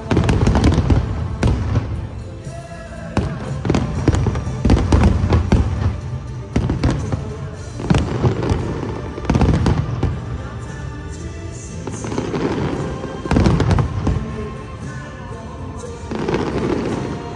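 Harbour fireworks display going off in dense volleys of bangs and crackles, with loud clusters several times, over music.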